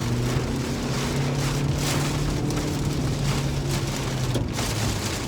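Heavy rain pelting a moving car, heard from inside the cabin, with uneven surges in the downpour. A steady low hum from the car runs underneath and fades out about four and a half seconds in.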